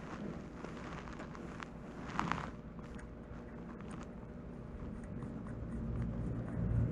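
Honda Lead 100 scooter engine running with a low, steady hum that swells briefly near the end, with a few light clicks and a short rattle about two seconds in.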